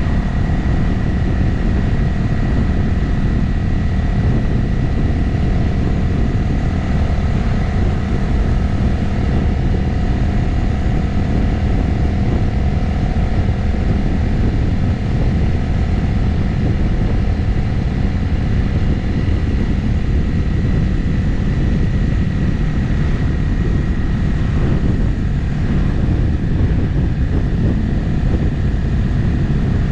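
Motorcycle being ridden at a steady cruising speed: an even engine note over a heavy low rumble, with no revving up or down.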